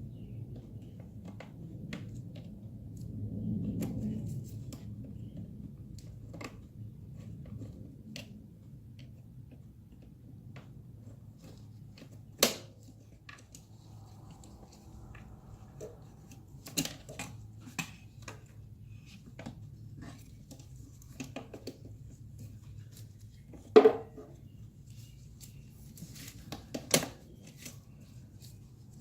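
Scattered clicks and taps of hands and tools working a plastic clip loose on a car engine part, with a few sharper clicks, the loudest about two-thirds of the way through, over a low steady hum.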